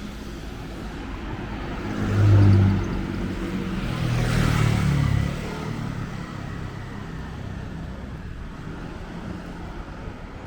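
Motor vehicle traffic passing close by on a city street. Engine noise swells about two seconds in and again between four and five seconds, then drops back to a steady traffic hum.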